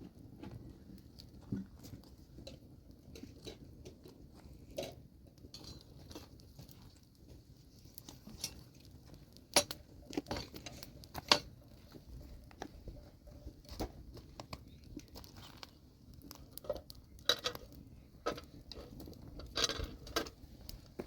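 Irregular clinks and knocks of hard objects striking each other, scattered through the stretch, with the two loudest about ten and eleven seconds in.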